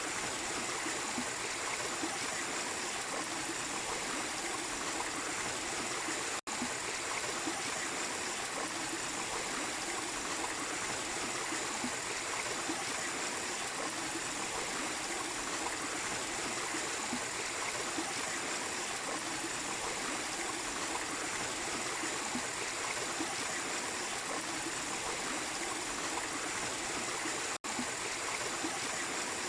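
Mini waterfall and stream running: a steady rush of water, broken by two split-second dropouts, about six seconds in and again near the end.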